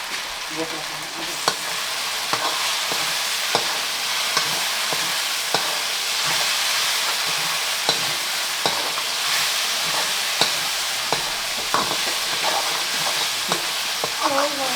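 Egg and potato curry frying in a hot pan, a steady sizzle, with a spoon clicking and scraping against the pan about once a second as it is stirred.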